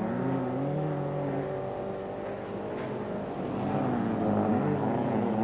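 Engines of several folkrace cars revving on a dirt track, their pitches rising and falling as the cars accelerate and lift off.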